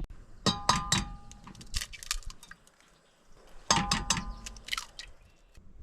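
Metal objects clanking as gear is handled: two clusters of knocks, each with a brief metallic ring, about three seconds apart, with rustling in between.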